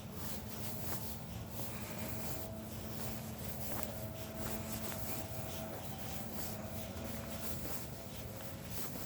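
Footsteps scuffing and rustling through dry fallen leaves, with a faint steady hum underneath.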